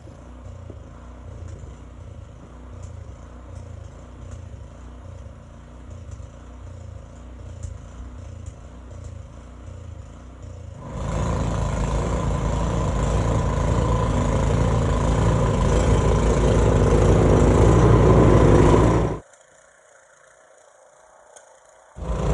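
Gas snowblower engine running with an even, pulsing beat for about the first ten seconds. It then suddenly becomes much louder and denser, with a steady whine, as it works through the snow. Near the end it drops off abruptly to a quiet gap for a few seconds, then comes back loud.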